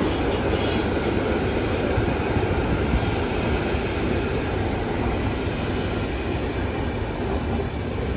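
Passenger train rolling past slowly, a steady rumble of wheels on the rails, with brief high squeaks in the first second.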